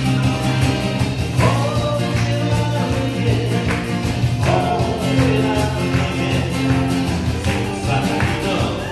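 Music led by strummed acoustic guitars, with a steady rhythm and a voice singing along.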